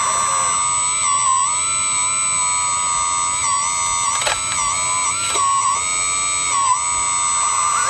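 Steady high electric whine of a radio-controlled hydraulic model's pump, dipping briefly in pitch several times as the hydraulics take load, with two short clicks about four and five seconds in.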